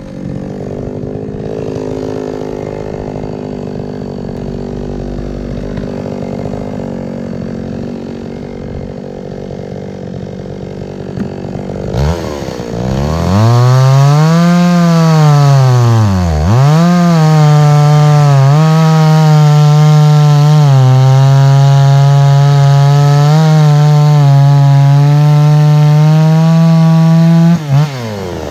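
Two-stroke chainsaw idling, then revved up about twelve seconds in. Its pitch rises, falls and dips before it settles into a loud, steady high-speed run while cutting through a log. It drops back near the end.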